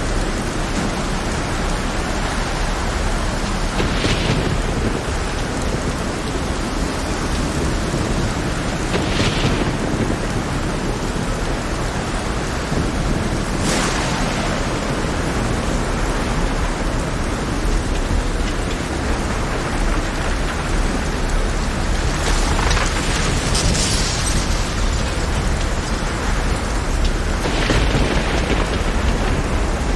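Heavy rain in a storm at sea: a steady, dense hiss with a low rumble beneath it. It swells into brief louder rushes five times, every several seconds.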